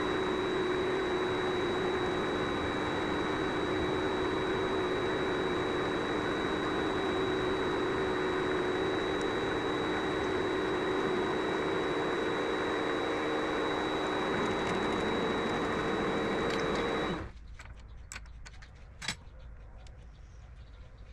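Vevor MX400 mini lathe running steadily with a high motor whine while a scissor-style knurler works a brass part. About 17 seconds in the lathe is switched off and the sound stops abruptly, followed by a few light clicks and one sharp knock.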